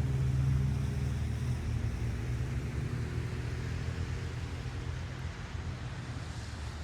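A motor vehicle's engine running with a low, steady hum that slowly fades away, like a vehicle driving off.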